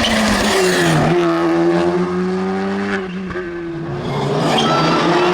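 Rally car engine heard from inside the cockpit, running hard at high revs. The pitch dips briefly about a second in and the engine eases off around three seconds before pulling hard again.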